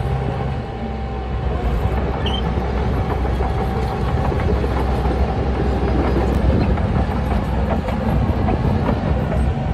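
Heavy earthmoving machinery running steadily: a deep engine rumble with a continuous clatter of small metallic clanks.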